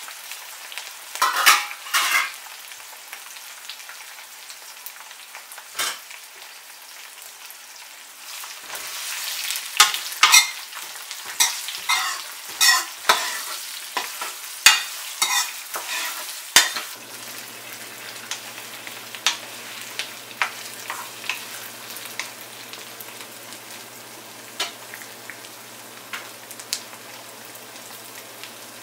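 Small whole brinjals frying in sesame oil with onions and curry leaves in a nonstick wok: a steady sizzle. A metal spoon stirs and scrapes against the pan about a second in, then repeatedly from about nine to seventeen seconds in.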